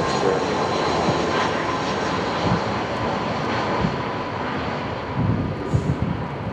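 Jet airliner's engines: a steady rush of noise with thin whining tones, slowly fading.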